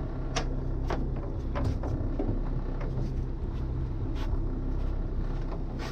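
Steady low rumble of a small fishing boat's inboard engine idling, with scattered sharp clicks and knocks on board.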